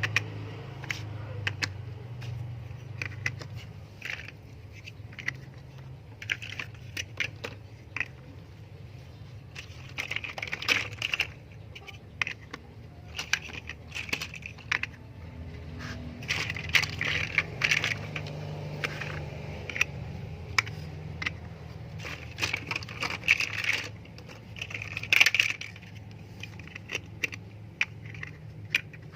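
Small plastic LEGO pieces clicking and clattering as they are handled, in irregular flurries of sharp clicks, over a steady low hum.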